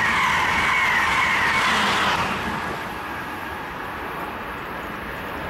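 Amtrak Acela Express high-speed trainset passing at speed, a loud rush of wheels on rail that drops off about two seconds in as the last car goes by, leaving a quieter steady rushing noise.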